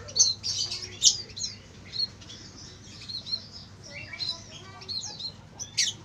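Small birds chirping: quick, high, repeated calls several times a second, with one louder, sharp downward-sweeping call near the end.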